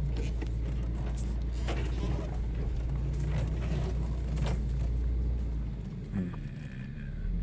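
Toyota 4Runner's engine running steadily under load as it works through a tight off-road trail, with scattered knocks and scrapes. The engine note drops away about six seconds in.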